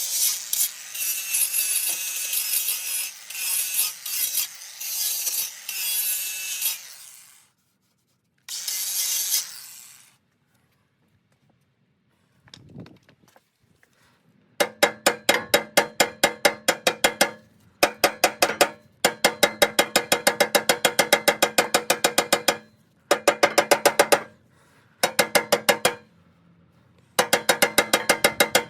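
A loud hissing, rasping noise for about seven seconds and again briefly, then a spray paint can being shaken: its mixing ball rattles in quick, even strokes, in bursts of a few seconds with short pauses between them.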